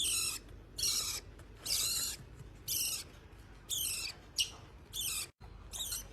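Hand-fed parrot chick giving short raspy begging calls, repeated about once a second.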